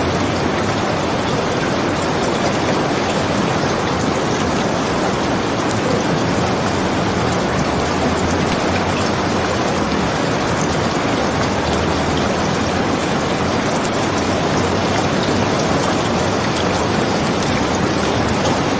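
Steady heavy rain, a dense even patter that holds at one level throughout.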